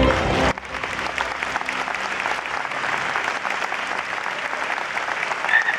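Music cuts off about half a second in, then a large arena audience applauds steadily.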